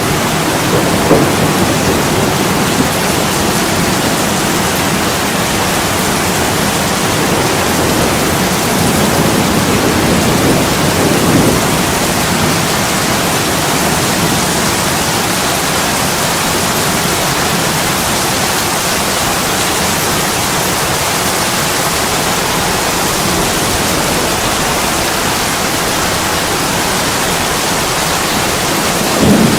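Heavy rain pouring on a window glass, a steady even hiss. Low rumbles of distant thunder swell under it about a second in and around ten seconds in, with another rising at the very end.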